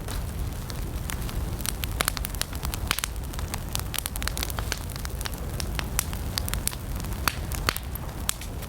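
Wood campfire crackling: irregular sharp pops and snaps of burning wood, several a second, over a steady low rumble of the flames.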